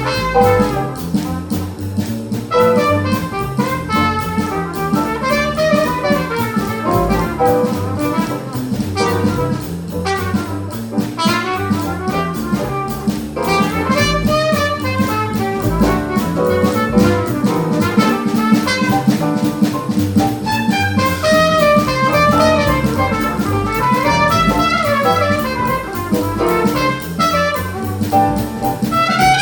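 Small jazz band playing bebop: a horn (alto saxophone or trumpet) runs fast melodic lines over piano, bass and a drum kit keeping time on the cymbals.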